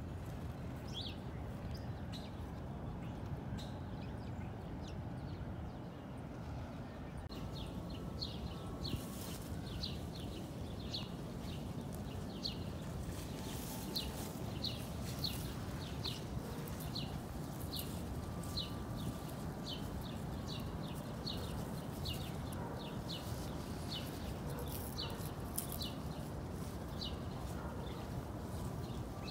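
Small birds chirping in short, high, repeated calls over a steady low background noise; the chirping becomes much busier about seven seconds in.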